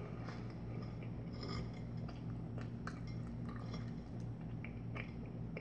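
Quiet chewing of a bagel, with scattered small mouth clicks and smacks over a steady low hum.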